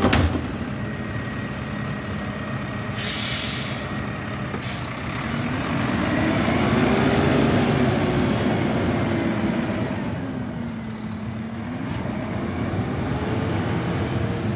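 Garbage truck engine revving up and down, with a burst of air-brake hiss about three seconds in and a shorter hiss a second later.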